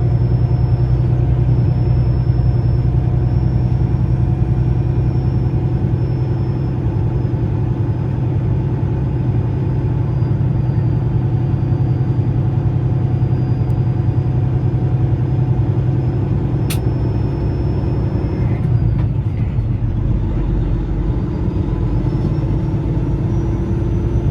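Steady low engine and road drone of a truck on the move, with a single sharp click about 17 seconds in; the sound cuts off suddenly at the end.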